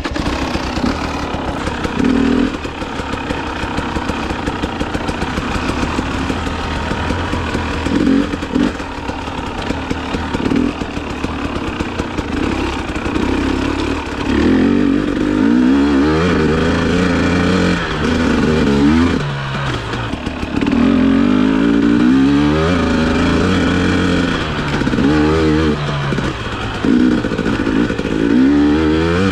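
KTM TPI fuel-injected two-stroke dirt bike engine under way, not fully warmed up in the cold. It runs fairly steadily with a few short revs at first, then from about halfway through the revs rise and fall again and again. It is being tested for the sputter that a new crankcase pressure sensor is meant to cure.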